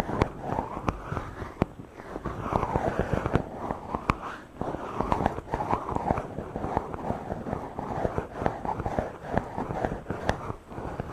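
Fingers rubbing and stroking directly on a microphone: continuous scratchy rustling full of small crackles and clicks.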